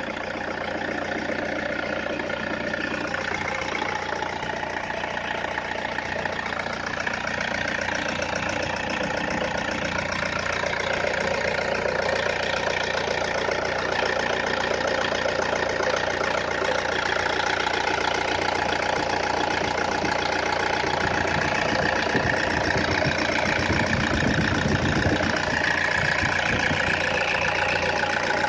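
ECU-remapped 2013 Toyota Innova's four-cylinder turbodiesel engine idling steadily, growing slightly louder in the second half.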